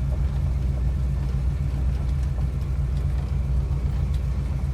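1978 Dodge Tradesman 300 van's 400 cubic inch V8 idling steadily with a low, even rumble shortly after a cold start, holding its idle without stalling; the owner calls the timing real nice.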